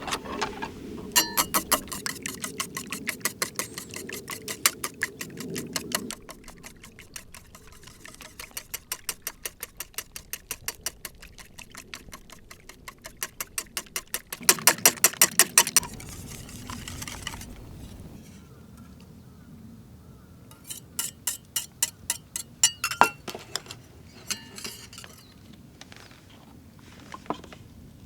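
Rapid, rhythmic strokes of a kitchen utensil during food preparation, in several bursts of a few seconds each with short pauses between them.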